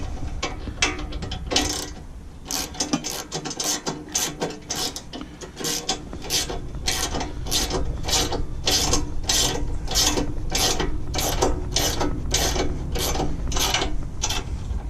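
Ratchet wrench being worked to tighten a nut on a loader-bucket pivot bolt, clicking on each back-swing. The strokes are uneven at first, then settle into a steady rhythm of about two a second.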